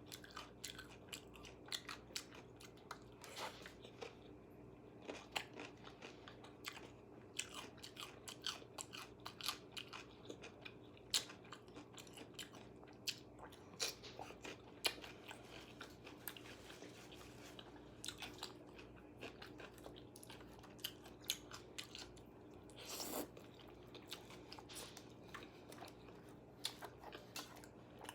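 A person biting and chewing crunchy KFC fried food, many short crisp crunches one after another, with a longer crunch late on.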